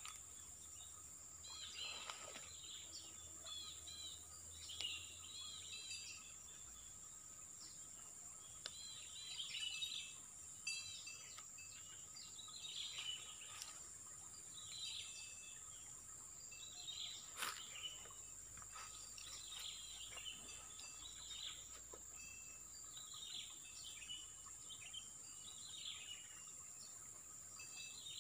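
Faint bird chirping: short curling notes repeated every second or two throughout, over a steady high-pitched hiss. One sharp click a little past halfway.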